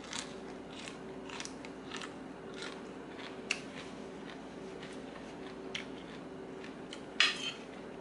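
Close-up chewing of crisp raw herbs and green mango salad: irregular crunches every half second to a second, with a louder crunch about seven seconds in, over a faint steady hum.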